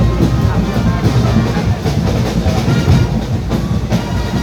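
Carnival street music, loud and dense: drums and percussion beating with a heavy low rumble, and a few voices or horns over it.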